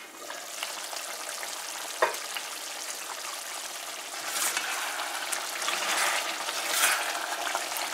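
Goat curry sizzling in a metal pot as it is stirred and turned with a spatula, the spatula scraping the pot; the meat is cooking down in its own juices as the water evaporates. One sharp knock about two seconds in, and the stirring grows louder from about halfway.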